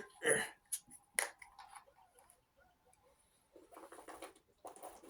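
Sharp clicks and crackles from a plastic water bottle being handled as its cap is twisted open, bunched in the first second or so. Near the end comes about a second and a half of denser sound as the water is sipped.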